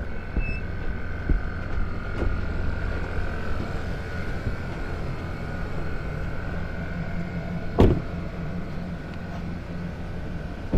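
Car engine running with a steady low hum, and a single loud thump about eight seconds in.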